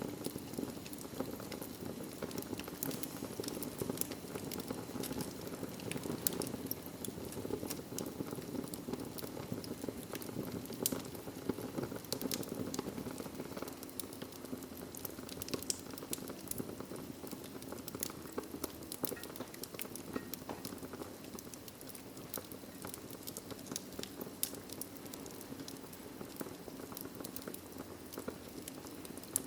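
Wood fire burning in a fireplace: a steady low rush with frequent small, irregular crackles and pops.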